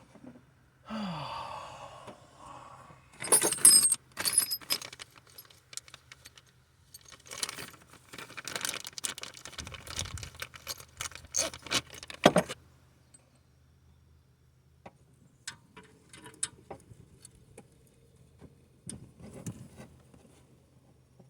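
Metal hand tools and small hardware clinking and clattering in bursts, loudest about four seconds in and again around twelve seconds, then only scattered light clicks.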